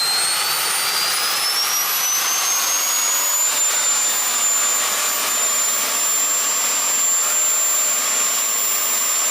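A small high-speed motor spinning up: a whine that rises in pitch over the first three seconds or so and then holds steady, over a hiss.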